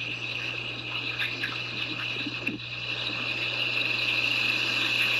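Rushing floodwater: a steady noisy rush that grows gradually louder, with a constant low hum underneath.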